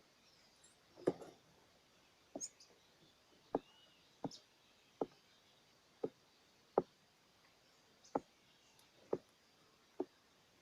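A string of short, sharp knocks or taps, about one a second and slightly irregular, with faint high bird chirps in the background.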